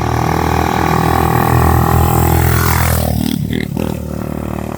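Hawk 250 dual-sport motorcycle engine running as the bike rides up close, growing louder, then its revs falling sharply about three seconds in as it slows, settling to a lower steady run. The bike is shifting as it should after a repair of its gear shift locking up.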